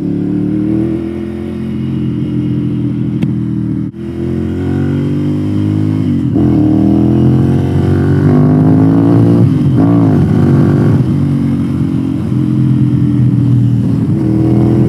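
Ducati Monster's L-twin engine under acceleration. The revs climb, drop back sharply about six seconds in and again about ten seconds in, as at gear changes, then run steadier.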